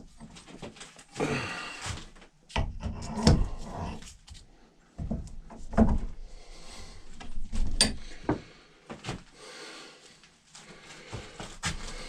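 Handling noise from oiling a wooden axe handle in a vise: scattered knocks and clicks, with a few short stretches of rubbing.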